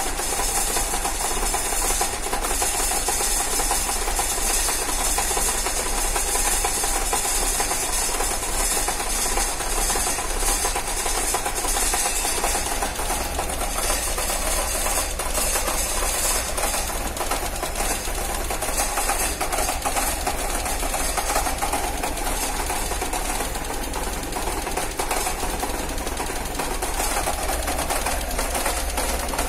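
Peugeot 106 semi-injection petrol engine idling with a steady ticking. The owner reports this ticking and shaking on cold morning starts, easing a little as the engine warms; a new timing belt has not cured it.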